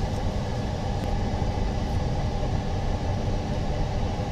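Steady low hum and rumble of running machinery, with a faint constant tone over it.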